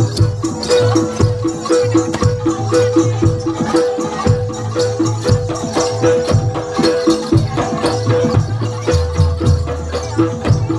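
Traditional Javanese percussion music with a steady, even rhythm: repeated pitched struck notes over low drum beats.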